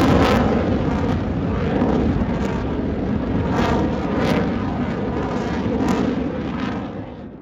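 Jet noise from Blue Angels F/A-18 Super Hornets passing overhead, a loud rushing sound that slowly fades and drops off near the end.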